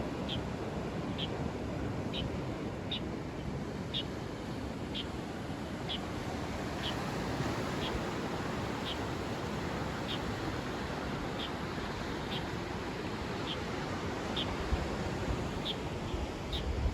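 Steady noise of sea surf, with a bird's short high chirp repeated about once a second.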